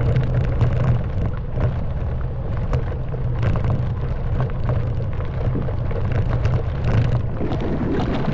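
Honda Wave 110cc single-cylinder four-stroke engine running steadily under way, with frequent short knocks and rattles from the bike riding over a rough track.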